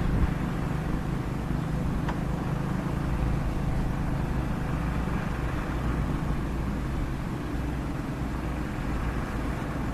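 Komatsu excavator's diesel engine running steadily, a low even drone.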